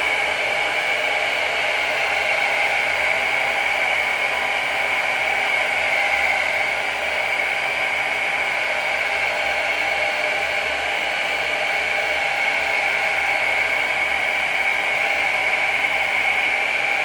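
Handheld hair dryer running steadily, a constant blowing rush with a high whine, drying the Got2b spray along the wig's hairline to set the glueless hold.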